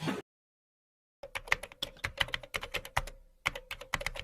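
Rapid, irregular clicking like keyboard typing. It starts about a second in, after a sudden cut to silence, and pauses briefly in the middle.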